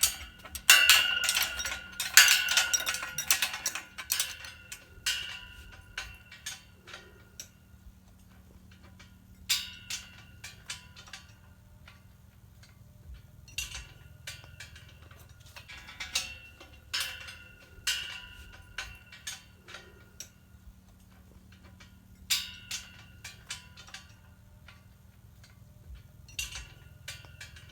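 Irregular clusters of sharp metallic clinks and ticks, each ringing briefly, over a faint low steady hum. The densest burst comes in the first few seconds, with smaller bunches about every three to four seconds after.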